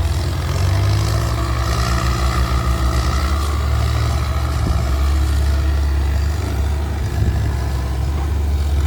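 Kubota M6240SUH tractor's turbo diesel engine running steadily through an aftermarket performance exhaust, with a deep, even exhaust note.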